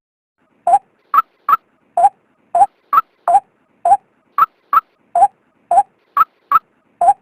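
Female white-breasted waterhen calling: a rapid run of short, sharp notes, about three a second, alternating between a lower and a higher note. This is the call used to lure male waterhens out for trapping.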